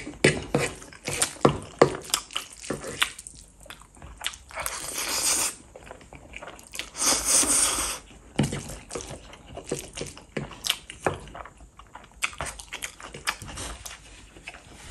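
Close-miked eating of Korean fire noodles: wet chewing and lip smacks with many short clicks, and two longer airy sounds of about a second each, around five and seven seconds in.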